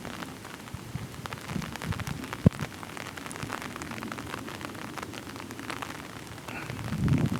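Rain falling, with many small drops ticking close to the microphone. There is one sharp loud tap about two and a half seconds in and low rumbling near the end.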